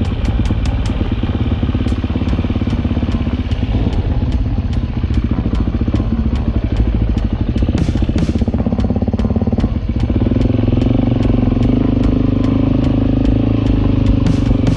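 Suzuki DR-Z dirt bike's single-cylinder four-stroke engine running as the bike rides along a dirt road, with a regular light ticking over it. The engine note shifts upward about ten seconds in.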